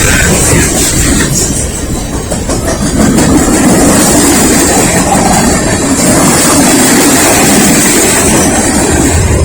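Norfolk Southern mixed freight train rolling past at close range: a loud, steady rumble of cars and wheels on the rails.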